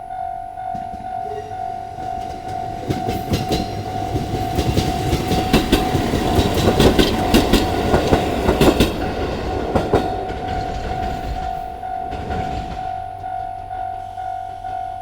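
A train passing over a level crossing, its wheels clicking rapidly over the rail joints, building from about three seconds in to a peak near the middle and fading away around twelve seconds. The crossing's warning bell rings in an even repeating pattern throughout.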